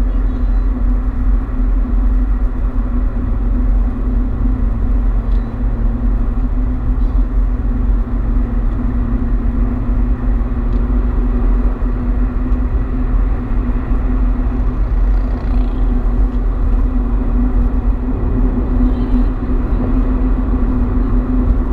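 A car driving at steady speed: a constant low rumble of engine and tyres on the road.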